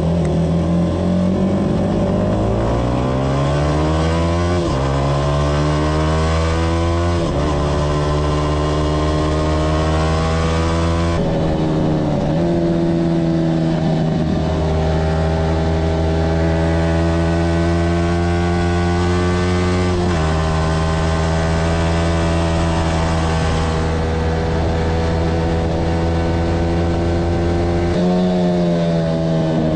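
Yamaha R15's single-cylinder engine heard on board, accelerating hard through the gears. The pitch climbs and drops back at each upshift, then holds at high revs for a long stretch, with another change of pitch near the end.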